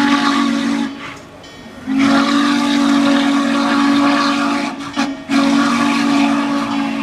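Steam locomotive's whistle sounding a low chord in blasts: one ends about a second in, then a long blast, a very short one and another long one, the long-long-short-long pattern of a grade-crossing signal, over a steady hiss of steam.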